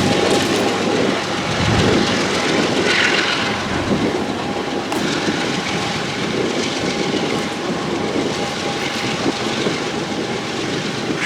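Freight train rolling past: the locomotives' diesel engine fades out about two seconds in, leaving the cars' steel wheels clattering over the rails, with gusty wind on the microphone.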